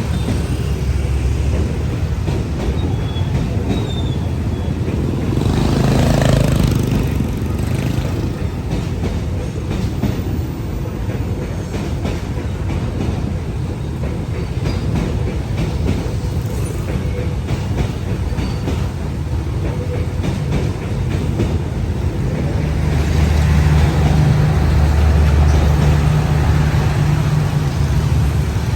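A train running on the rails: a steady low rumble with many clicks of wheels over the rail joints. It swells briefly about six seconds in, then grows louder near the end with a low, steady engine drone.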